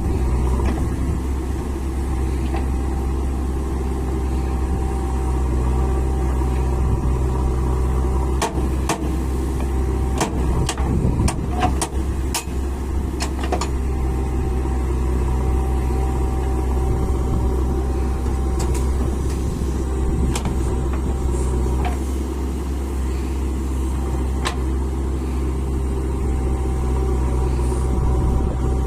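A heavy diesel machine's engine running steadily at a constant speed, with a series of sharp knocks or clanks about a third of the way in and another near the end.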